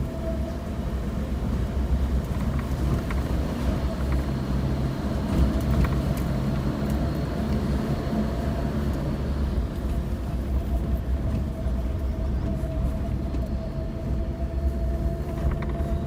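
An off-road 4x4 driving steadily along a rough forest road: a continuous engine and road rumble with a few faint knocks.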